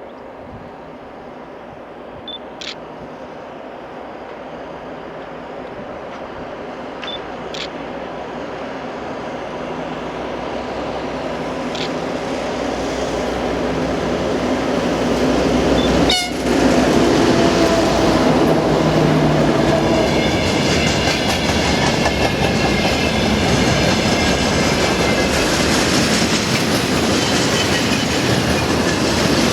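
A 2M62U diesel locomotive with twin two-stroke diesel engines approaches, growing steadily louder until it passes about halfway through. A freight train's wagons then roll past, their wheels clattering rhythmically over the rail joints.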